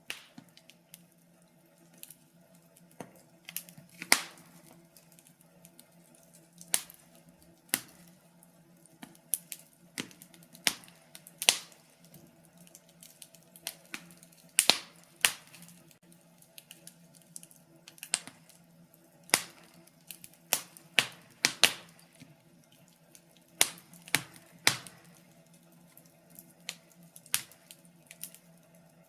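Wood fire crackling: irregular sharp pops and snaps of uneven loudness, a few every couple of seconds, over a faint steady low hum.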